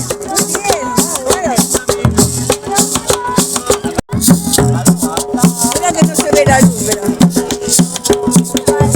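Cumbia played by a Colombian sonora band, with a steady shaker rhythm over a repeating bass line and some voices on top. The sound drops out for an instant about four seconds in.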